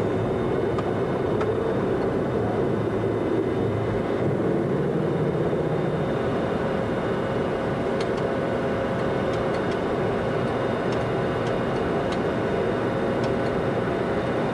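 Boeing 737-200's Pratt & Whitney JT8D engines running at high thrust during takeoff and initial climb, heard inside the cockpit: a steady, even roar with a held tone in it. A few faint clicks sound over it.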